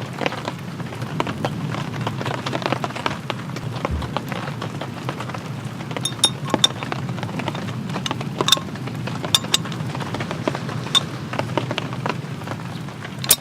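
Steady rain pattering, with scattered louder drops ticking sharply, several of them from about halfway through.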